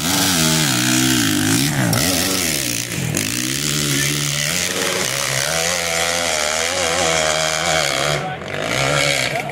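Hillclimb dirt bike engine revving hard, its pitch rising and falling repeatedly, with brief dips about three seconds in and near the end.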